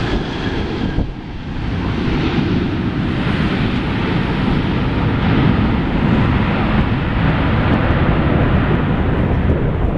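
Boeing 787 jet engines making a steady rumble, mixed with wind buffeting the microphone.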